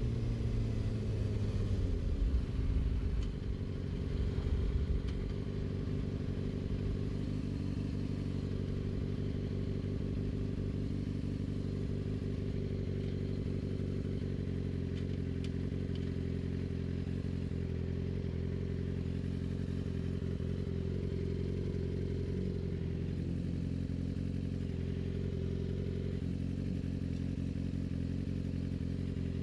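Yamaha R6's 600 cc inline-four engine, its revs falling over the first few seconds as the bike slows, then settling into a steady low idle.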